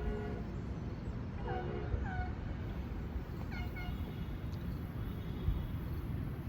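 Steady low rumble of a train on the line, with two pairs of short squeals falling in pitch, about one and a half and three and a half seconds in.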